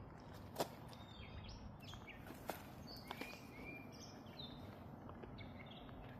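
Faint outdoor ambience of songbirds chirping with short whistled notes, over a low steady hiss. A few sharp clicks, the loudest about half a second in.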